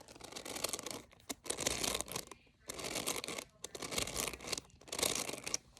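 A bead-filled squishy toy, deflated so the beads pack tight, squeezed about five times by hand, each squeeze giving a short crinkly crunch.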